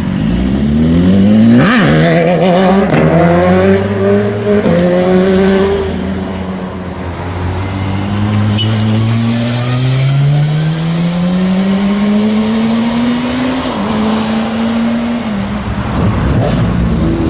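Sport motorcycle engines accelerating hard, the pitch climbing through the gears with drops at each shift, about three seconds in, near five seconds and near fourteen seconds. One bike passes close about two seconds in, its pitch swinging sharply.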